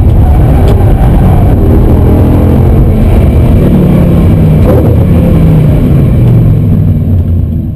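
Audi R8 V10 Plus's naturally aspirated V10 heard from inside the cabin, running hard at high revs down a straight. Its pitch climbs slowly in steps, and the sound fades out near the end.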